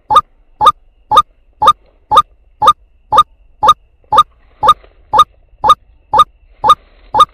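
White-breasted waterhen (truwok) call: short, identical notes with a slight upward sweep, repeated evenly about twice a second as a lure to bring in a male.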